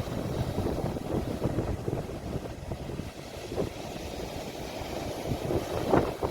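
Sea waves washing at the shore, heard as an uneven low rumble, with a brief louder surge about six seconds in.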